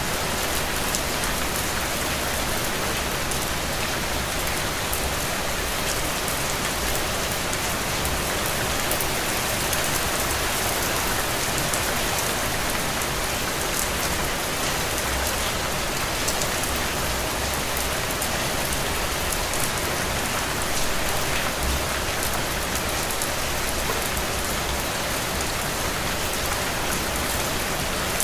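Heavy, steady rain falling on open ground and soaking soil, a dense even hiss of rain with countless individual drop ticks.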